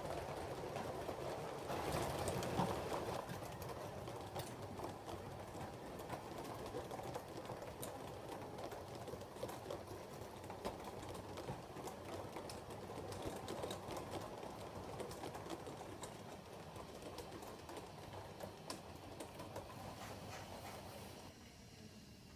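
A 7mm-scale model train running on the layout: a steady motor whirr with quick clicking of wheels and mechanism over the track. It gradually gets fainter and drops away near the end.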